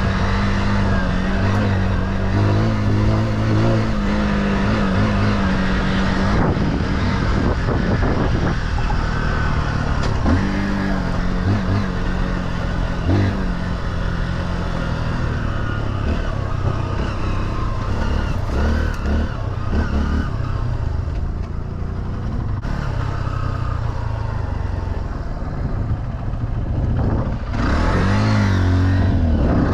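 Single-cylinder four-stroke off-road engine running while riding, its pitch rising and falling as the throttle is worked and gears change, with a sharp rev-up near the end.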